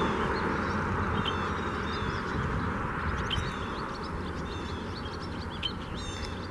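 Many short bird chirps and calls over a steady low rumble that slowly fades.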